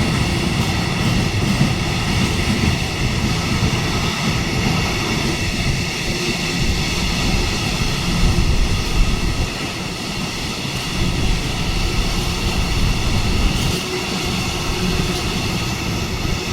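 A train running past on the rails: a loud, steady rumble of wheels on track, with several high, steady whining tones over it.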